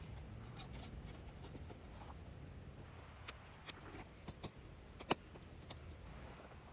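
Small wood fire crackling in a compact fire stand, with scattered sharp pops over a low, steady background; the loudest pop comes about five seconds in.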